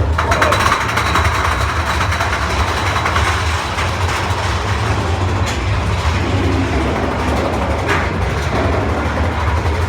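Big Thunder Mountain Railroad mine-train roller coaster running along its track, with a steady low rumble of wheels on rails and a rattling clatter from the cars.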